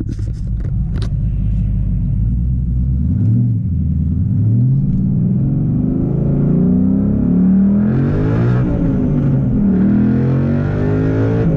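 Car engine with a loud exhaust, running steadily, then revved up and down again and again from about three seconds in.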